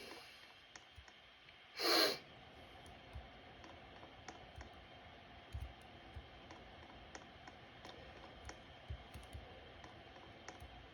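Ceiling fan running with a faint steady hum and scattered light ticks. About two seconds in there is one brief, loud, rasping burst.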